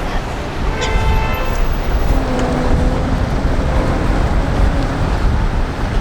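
Steady low vehicle rumble, with a short pitched tone about a second in.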